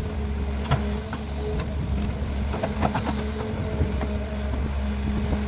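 Heavy construction machinery's diesel engine running steadily with a low drone, with sharp metallic clanks several times.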